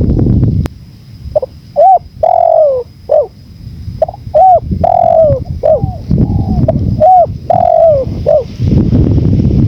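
Spotted dove (tekukur) cooing: three repeated phrases of short coos, each with one longer coo that falls in pitch, the loudest coos so loud they distort. Low wind rumble comes in at the start, briefly in the middle and again near the end.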